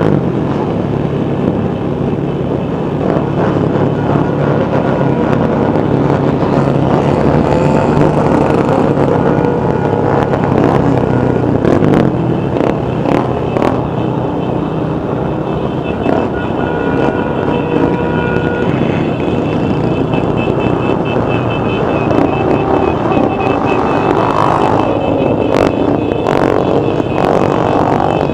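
Many motorcycle engines running together as a large group of bikes rides along, a loud, continuous engine din with pitches rising and falling as riders rev.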